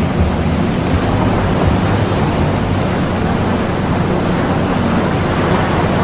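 Steady water-and-wind ambience: an even rushing noise with no breaks, with faint steady low tones underneath where the masked affirmation layers sit.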